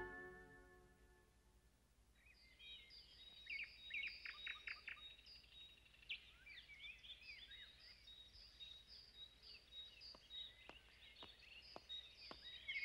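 Faint birdsong ambience: small birds chirping and twittering, starting about two seconds in after a moment of near silence.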